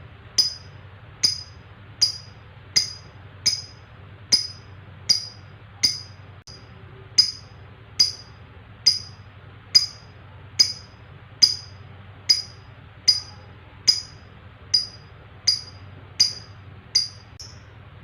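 Lovebird giving a short, sharp, high chirp over and over, a little more than one a second, coming slightly faster near the end.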